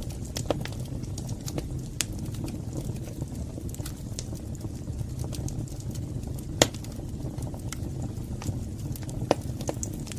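Wood fire burning in a fireplace: a steady low rumble of the flames with irregular sharp crackles and pops, the loudest about six and a half seconds in.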